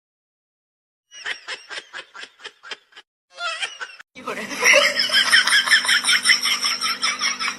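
A person laughing in quick, rhythmic bursts. The laughter comes in a run, stops briefly, then starts again louder about four seconds in over a steady background hum.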